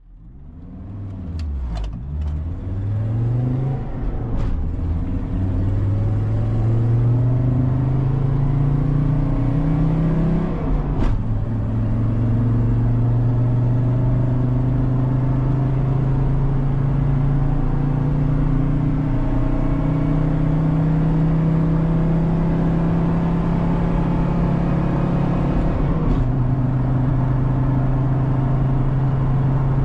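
Volkswagen T4's 2.5-litre five-cylinder naturally aspirated diesel pulling hard from a standstill. The pitch climbs in each gear and drops at the upshifts about 2, 4 and 11 seconds in, then holds almost steady with a small drop near the end.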